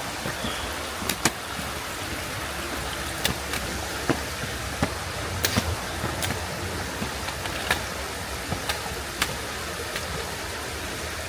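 Sharp, irregular clicks from a hiker climbing stone stairs, roughly one every half second to second, over a steady rushing hiss.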